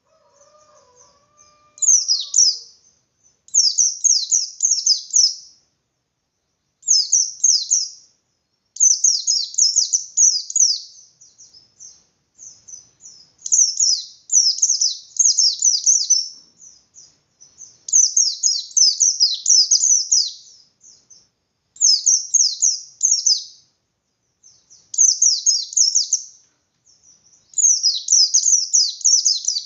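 White-eye (pleci, bustomi type) singing the rapid, high, scratchy 'ngalas' song with an open beak, in a dozen or so fast twittering phrases of one to two seconds each with short pauses between. This is the song used as a lure to provoke other white-eyes into answering.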